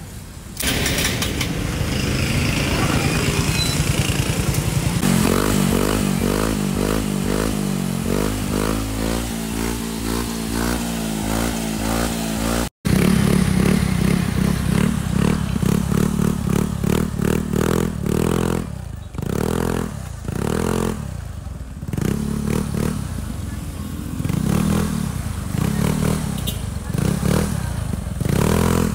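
Yamaha Mio Sporty scooter's single-cylinder four-stroke engine running through an Apido V4 aftermarket exhaust pipe. The throttle is blipped again and again, the pitch rising and falling with each rev. The sound breaks off briefly about 13 seconds in.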